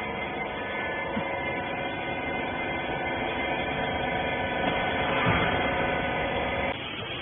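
Electric motor and hydraulic pump of a wiper-rag baler running with a steady multi-tone hum, cutting off suddenly near the end.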